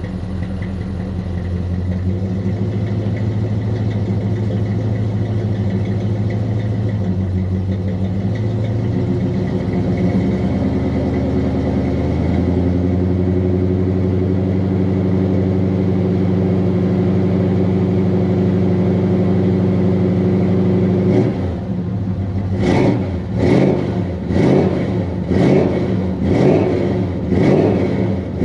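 Carbureted 350 small-block Chevy V8 with long-tube headers and Thrush welded mufflers running on a cold start, with no choke. It idles steadily, the idle speed climbs about ten seconds in and holds higher, and near the end the throttle is blipped in quick repeated revs, about three every two seconds.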